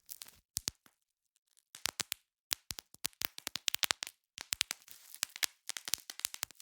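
Bubble wrap being popped by hand: many sharp snapping pops in quick irregular clusters, with crinkling of the plastic between them and a pause of about a second near the start.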